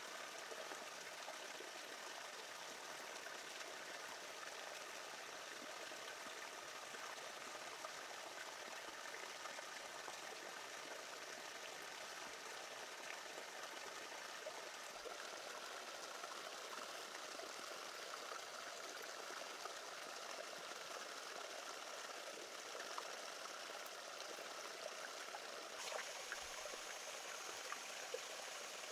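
Faint, steady sound of flowing water, like a small stream, with a few small clicks; near the end a higher hiss joins it.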